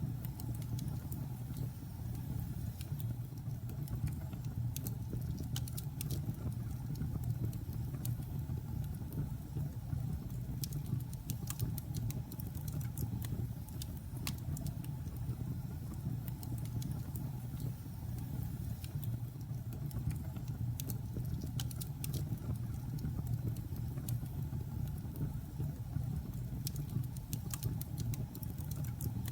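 Wood fire burning in a fireplace: a steady low rumble of the flames with frequent sharp crackles and pops from the logs, scattered irregularly.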